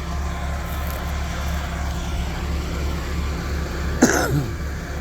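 Steady low rumble of an idling vehicle engine, with a short cough about four seconds in.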